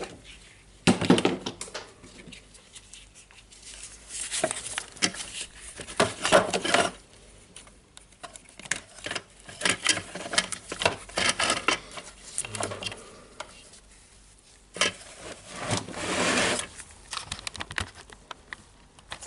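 Irregular small clicks, knocks and rustles of tools and small parts being handled on a workbench while a potentiometer with its switch is being worked free of a radio's circuit board. There are a few louder clusters of clatter.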